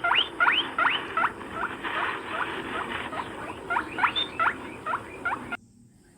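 Rabbit squeaking: a run of short, high, upward-sliding squeaks, about three a second, that stops shortly before the end.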